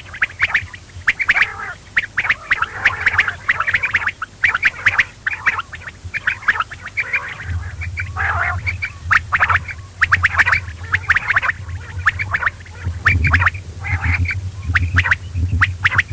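Quail calling over and over in quick runs of short, sharp notes. A steady low hum comes in about halfway.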